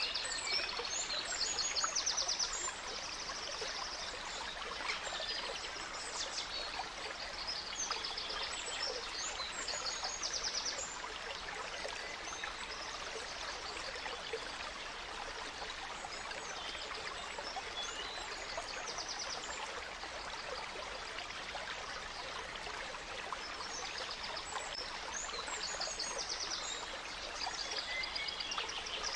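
A small stream babbling steadily, with forest birds singing over it: rapid trills and chirps in the first third and again near the end.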